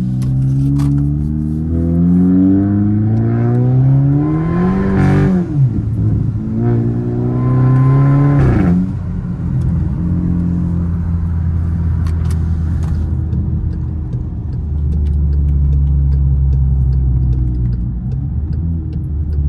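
Tuned, turbocharged VW R-Line engine pulling hard under acceleration. Its pitch climbs, drops sharply at a gear shift about five seconds in, climbs again and drops at a second shift near nine seconds, then settles into a steady cruise.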